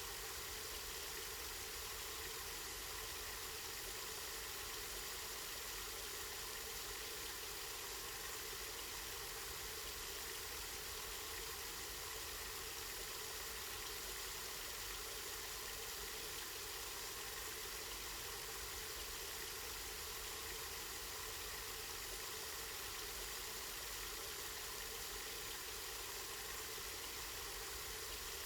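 Water from a spring running steadily, a continuous even hiss.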